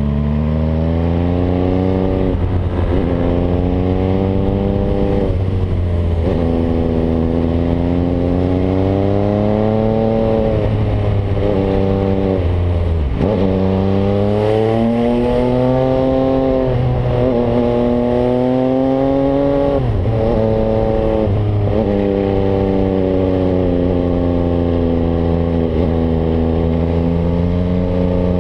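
MV Agusta Brutale 800's three-cylinder engine breathing through an aftermarket Zero exhaust while being ridden. Its pitch climbs and then falls back several times as the rider works the throttle and gears.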